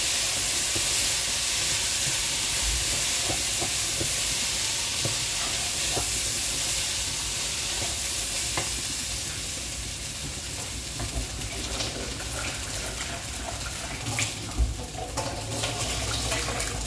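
Raw rice and browned vermicelli sizzling in oil in a frying pan, stirred with a wooden spoon that scrapes and taps the pan with small clicks. The sizzle eases a little in the second half, and there are a few sharper knocks near the end.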